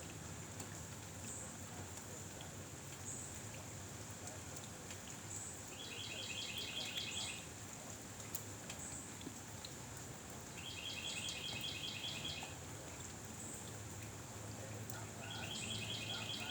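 Steady outdoor background noise with a bird's short, rapid trill that comes three times, about every four to five seconds, and a faint high chirp repeating every second and a half or so.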